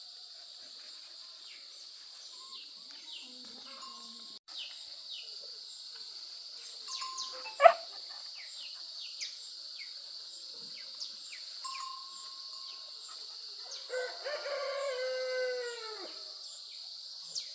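Outdoor animal ambience: a steady high drone with short repeated falling chirps from birds. About eight seconds in comes a sharp loud call. Near the end there is a long call of about two seconds that falls in pitch.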